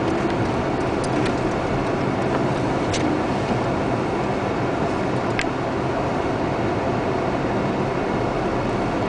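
Steady road and engine noise of a car driving, with a few isolated sharp ticks.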